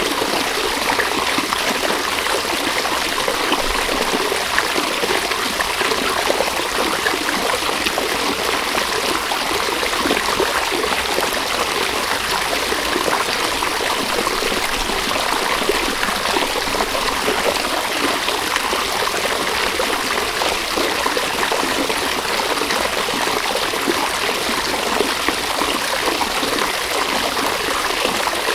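A river running steadily over rocks, a continuous rushing and trickling of water.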